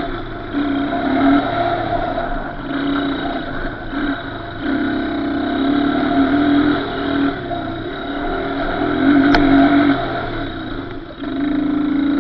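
Small off-road engine being ridden, the throttle opened and closed again and again so that the engine note keeps rising and dropping back.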